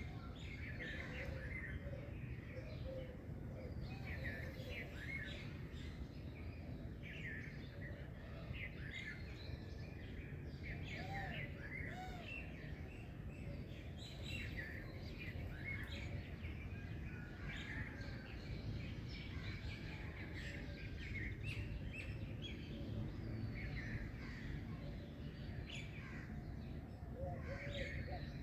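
Several birds chirping in quick, overlapping calls, with a steady low background rumble underneath.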